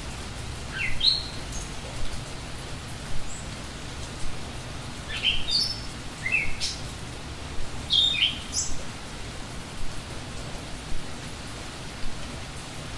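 A small songbird calling in short chirps that sweep upward in pitch, in three brief clusters, over a steady rushing background noise.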